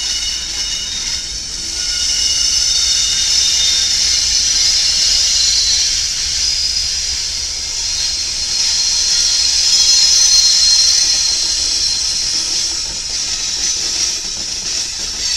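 BNSF diesel locomotives rolling slowly past at close range, giving a steady high hiss of wheels on rail with faint squealing tones.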